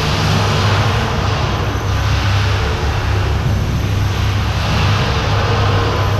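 Steady, loud drone of a ship's engine-room machinery running, a deep hum under a broad hiss that swells and eases every second or two.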